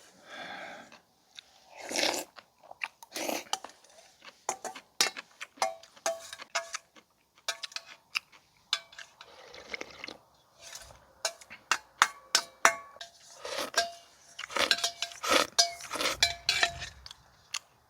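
A person eating soup and kimchi: utensils clicking against a bowl amid crunchy chewing, the clicks coming thicker in the second half.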